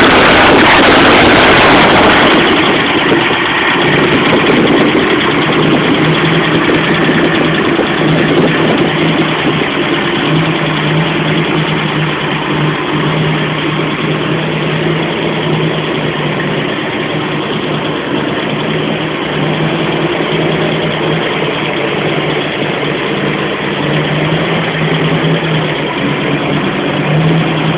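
Ford Maverick's 302 V8 engine, built up for performance, running at idle with a rumble. It opens with a louder, hissy rush of noise for about two seconds, then settles into a steady rumble.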